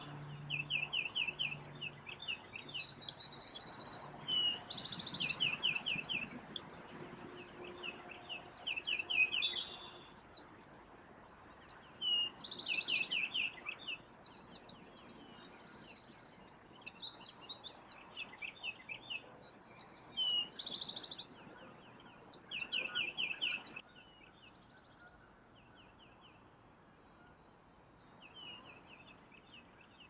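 Songbirds singing in repeated quick trilled phrases over faint outdoor background noise. The birdsong stops about three quarters of the way through, leaving only the low background.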